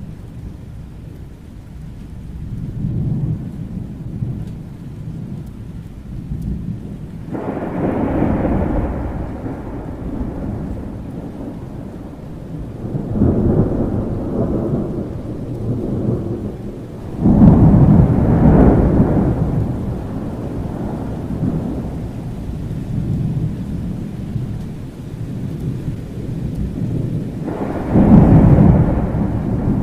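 Thunderstorm: steady rain under low rolling thunder, with four loud thunder rolls that each begin suddenly, about a quarter of the way in, near the middle, a little past the middle, and near the end, the last two the loudest.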